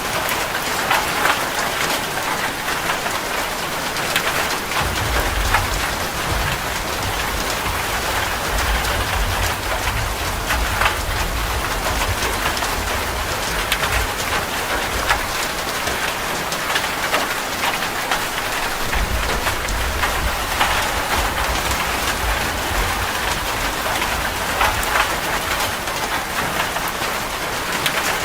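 Steady rain falling, with many individual drops striking a surface as sharp ticks through the hiss. A low rumble joins underneath about five seconds in and carries on for most of the stretch.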